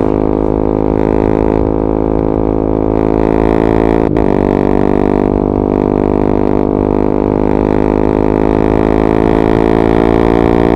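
KTM 390 Duke's single-cylinder engine through an Akrapovic slip-on and decat pipe, running at steady revs in a constant drone. The note breaks briefly about four seconds in, and the revs climb slowly near the end.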